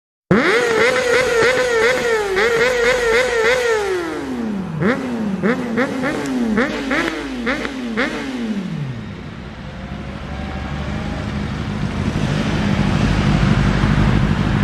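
Inline-four sportbike engine held high in the revs for about four seconds with a rapid wobbling pitch, like bouncing off the rev limiter. The revs then drop through a series of short blips, each a little lower, with sharp crackles among them. Near the end a rushing noise builds.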